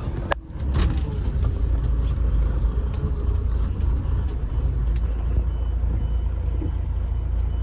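Semi truck's diesel engine running slowly with a steady low rumble, heard from inside the cab, while the truck waits at a gate. A sharp click comes about a third of a second in, and a few faint short high beeps sound in the second half.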